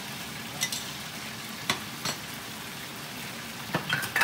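Lobster pieces in tamarind sauce sizzling in a wok while being stir-fried, a steady frying hiss, with several sharp clinks of the spatula knocking against the pan.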